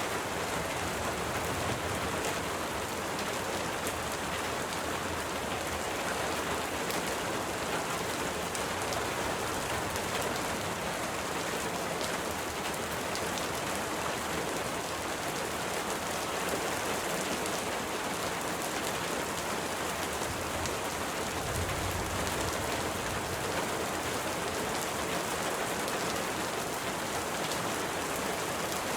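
Steady rain falling, a constant even hiss with faint ticks of single drops scattered through it.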